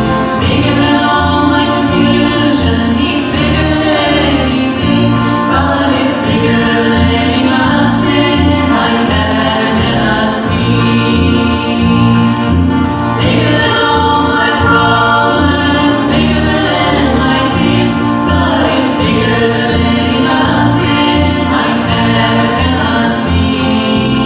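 Gospel vocal group singing a hymn-style song in harmony over an accompaniment with a steadily stepping bass line.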